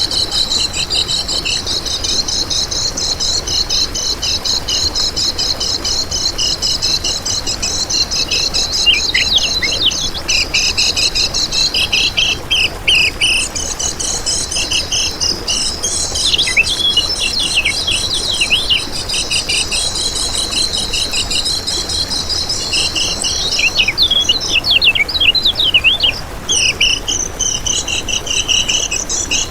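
Kecial kuning singing: a continuous, very fast, high twittering trill with quick downward-sliding chirps mixed in, the trill thinning out briefly a little over three-quarters of the way through before starting up again.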